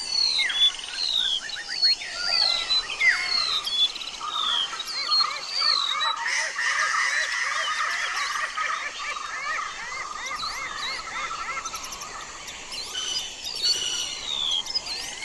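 Several birds chirping and singing at once, with repeated whistled calls and runs of quick chirps overlapping.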